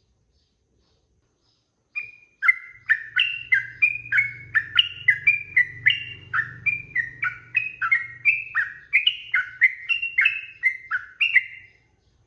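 Yellow-vented bulbul (trucukan) singing a long, fast run of short bubbly notes, about two to three a second. It starts about two seconds in and stops near the end.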